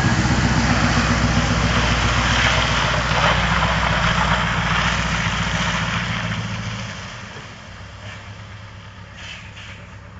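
Scania V8 diesel truck engine running loudly, then falling to a quieter, steady level about seven seconds in.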